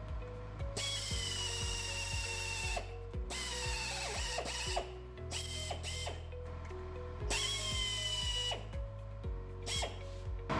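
A power drill boring into an exhaust heat shield in four bursts, its whine dropping slightly in pitch as the bit bites. Background music with a steady beat plays underneath.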